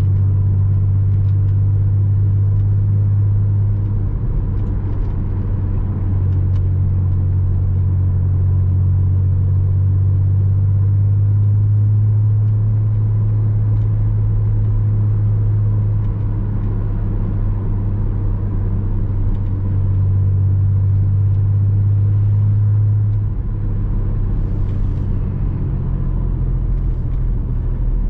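Porsche Boxster 986 flat-six engine droning steadily while cruising, with a deep low hum and tyre and road rumble. The engine note shifts slightly a few times as the throttle or gear changes.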